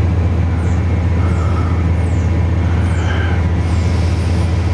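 Car engine idling, heard inside the cabin as a steady low drone, with faint short high chirps repeating over it.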